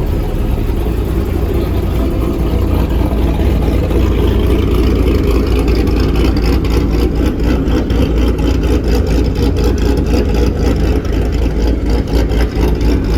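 Chevrolet Malibu being driven, with steady engine and road rumble inside the cabin. The rumble grows a little louder about four seconds in.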